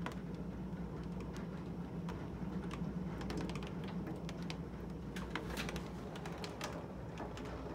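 Rain tapping and ticking irregularly against a window, many small sharp drops at uneven intervals, over a low steady hum.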